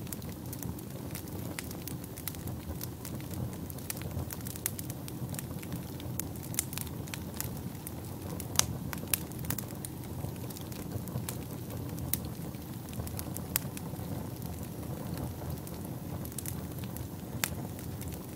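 Wood fire burning in a fireplace: a steady low rumble of flames with irregular crackles and sharp pops, a few louder snaps scattered through.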